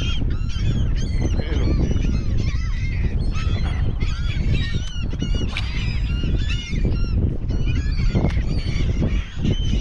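A flock of feeding birds calling over the water, many short overlapping calls without a break, with heavy wind rumble on the microphone.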